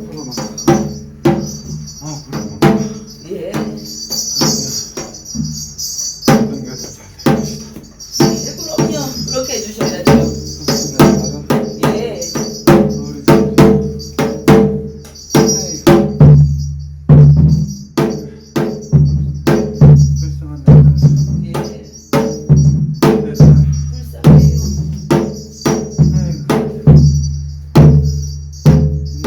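Korean shamanic gut ritual percussion: drum strokes in a fast, steady rhythm with jingling metal percussion ringing over them. The drumming grows fuller and heavier about a third of the way in.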